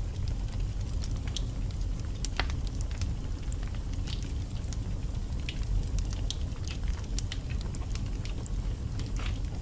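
Wood fire burning in a fireplace: a steady low rumble of the flames with irregular sharp crackles and pops from the logs, several a second.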